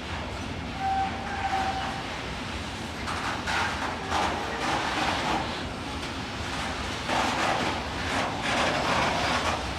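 Container freight train rolling past, its wagons' wheels rumbling and clattering on the rails in louder surges, with a brief thin squeal of wheels on rail about a second in.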